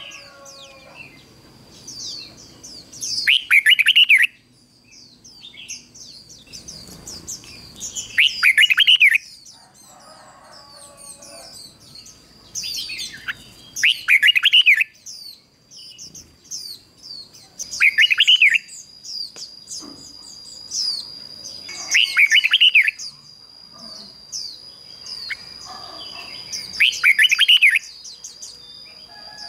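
Red-whiskered bulbul singing loud, warbled phrases about every four to five seconds, six in all, with fainter chirps of other birds between them. A steady high-pitched tone runs through the last third.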